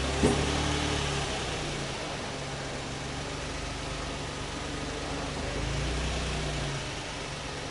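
Suzuki Every Join Turbo's 660 cc three-cylinder turbo engine idling steadily after a rev settles, with a sharp click just after the start and a brief rise in the low hum about six seconds in.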